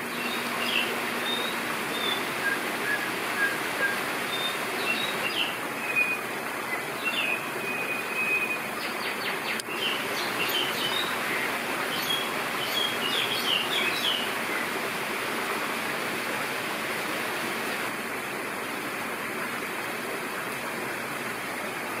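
Small songbirds chirping in short, high calls over a steady rushing background noise; the chirps thin out and stop about two-thirds of the way through.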